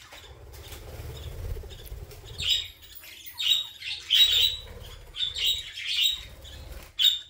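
Budgerigar chirping in a run of short, bright calls that start a couple of seconds in, after low rumbling handling noise at the start.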